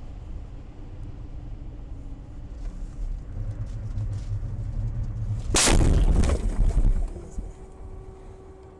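Low road and engine rumble from a car recorded by a dash camera, broken about five and a half seconds in by a sudden loud crash lasting about a second and a half, the sound of a vehicle collision. A faint steady tone follows.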